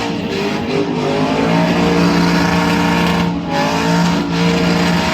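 Truck engine held at high revs during a burnout, its pitch dipping briefly a few times, most clearly past the middle.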